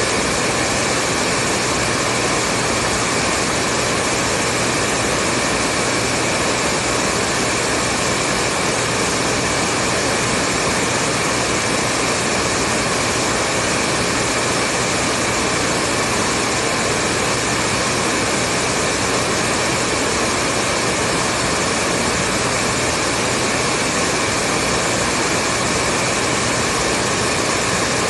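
Hair dryer running continuously, a steady whoosh of air with a faint motor hum under it, played as white noise to lull a baby to sleep.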